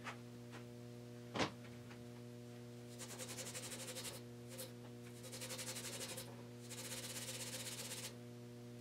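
Three bursts of fast back-and-forth rubbing, each about a second long: valve grinding compound being worked against the pitted seal surface of a metal shaft to lap it smooth. A short click comes about a second and a half in, and a steady electrical hum runs underneath.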